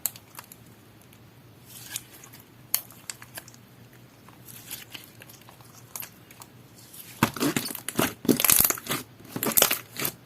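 Clear slime made with aloe soothing gel being played with by hand: scattered small clicks, then from about seven seconds in, dense crackling and popping.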